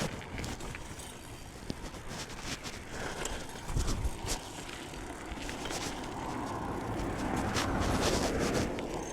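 BMX bike riding along a forest trail: tyre noise on dirt with scattered clicks and rattles, building to a louder rush about seven to nine seconds in.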